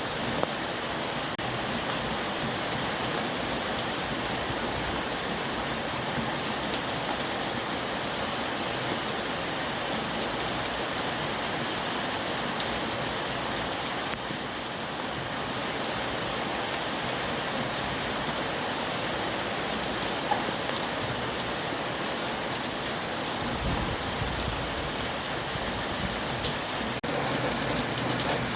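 Heavy rain falling steadily and hissing. About two-thirds of the way through a brief low rumble rises under it, and near the end the rain gets a little louder and hissier.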